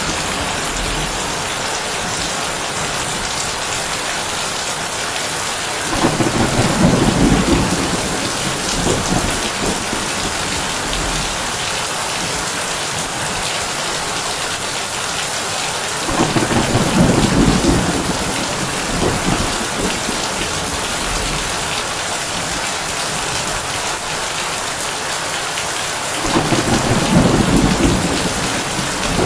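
Heavy rain pattering steadily on a tin roof, with thunder rumbling low three times, about ten seconds apart.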